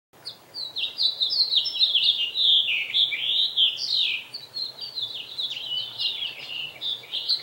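Small birds chirping and twittering, a dense stream of quick, overlapping high chirps that starts abruptly a moment in.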